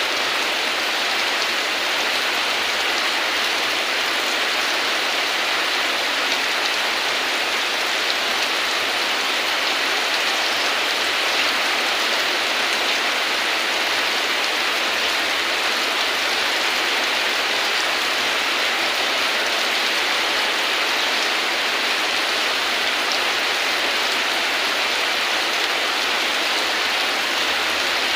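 Steady heavy rain falling, an even hiss of many drops with no thunder or breaks.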